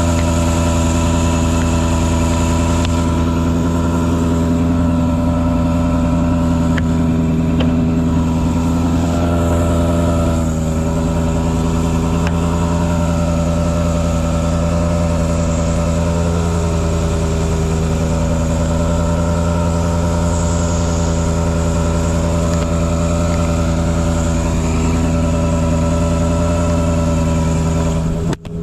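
An engine running steadily at an even speed, its pitch dipping slightly a few times, with a brief dropout near the end.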